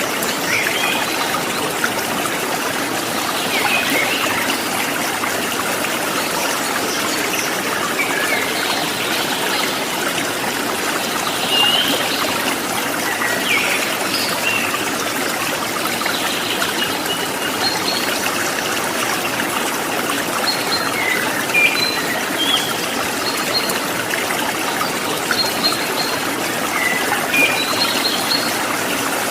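Steady trickle of running water, like a small forest stream, with birds chirping in short, high calls scattered throughout.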